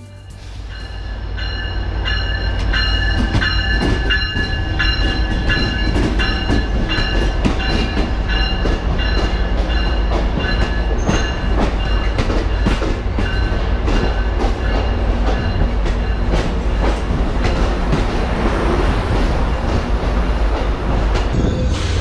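Amtrak passenger train rolling through the station tracks: a steady low rumble with rapid, irregular clicking of wheels over rail joints and switches and a thin steady high whine. It fades in over the first few seconds.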